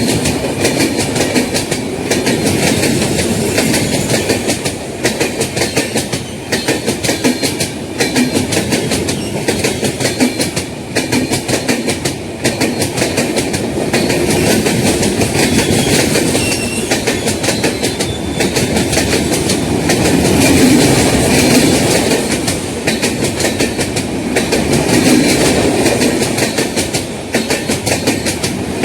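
Indian Railways passenger train running steadily, its wheels clattering rhythmically over the rail joints.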